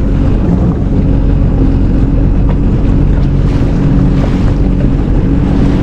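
Sea-Doo jet ski engine running steadily, with wind noise on the microphone.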